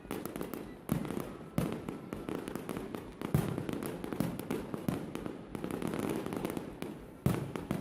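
Fireworks display: aerial shells bursting in a series of sharp bangs, one every second or two, with crackling between them.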